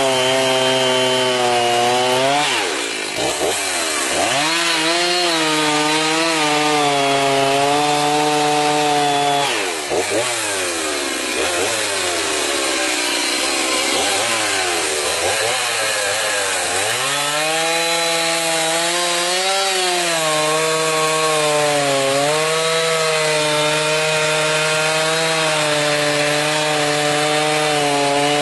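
Gasoline chainsaw running hard while cutting wood, its engine pitch dipping briefly about three seconds in and again for several seconds in the middle before revving back up.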